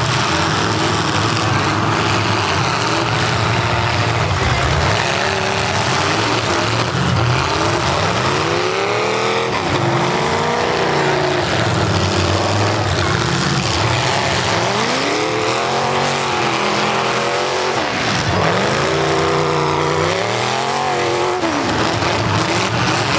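Engines of several full-size V8 demolition derby cars running and revving hard. The pitch sweeps up and down again and again as the cars accelerate, most often in the second half.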